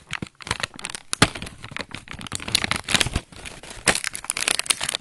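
Irregular rustling and clicking of small plastic toy parts being handled: the spare wheels of a plastic toy finger bike.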